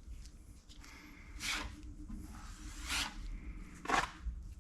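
Three short scrapes, a second or more apart: a spreader working lightweight body filler over a sanded steel tool box panel.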